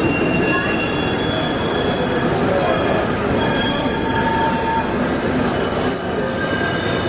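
Model trains running on an exhibition layout, with thin, high wheel squeals coming and going over a steady background noise.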